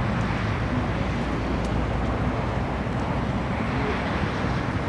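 Steady outdoor vehicle traffic noise, an even low rumble with no distinct events.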